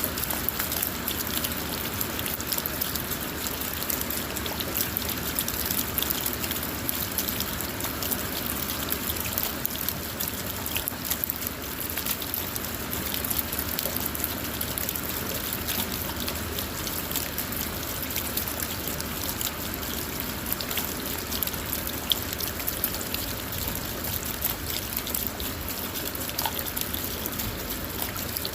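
Steady rain on a car, many small drops ticking against a constant hiss, with water trickling and running off.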